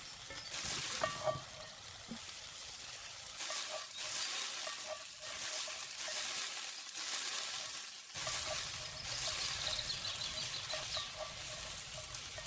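Food sizzling in a pan while it is stirred, with small repeated ticks of a utensil against the pan.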